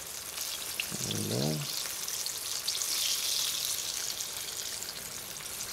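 Breaded jackfruit pieces shallow-frying in oil: a steady sizzle with fine crackling, swelling for a couple of seconds in the middle.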